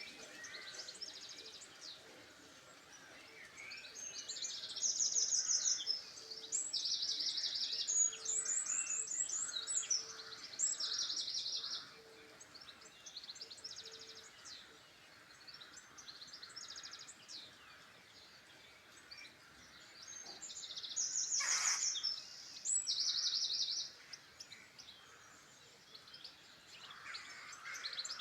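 Several songbirds singing together. The loudest are high, rapid trills in bursts of about a second, several in a row early on and again a little past the middle, over scattered chirps.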